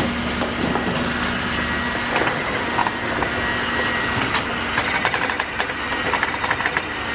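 An engine of concrete-pouring machinery running steadily. There is a quick run of rattling knocks in the second half.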